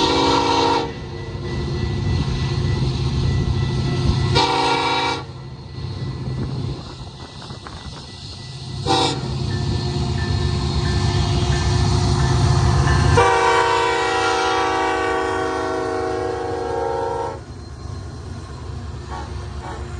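Freight diesel locomotive horn sounding a grade-crossing signal: two short blasts, a brief toot, then a long blast of about four seconds. Under the horn, the locomotives' diesel engines rumble steadily, working upgrade; the rumble drops away as the long blast starts.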